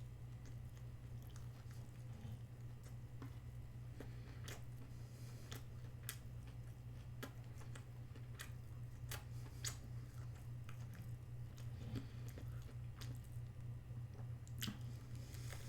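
Close-miked chewing of a chicken burger and fries, with scattered sharp crunchy clicks over a steady low hum.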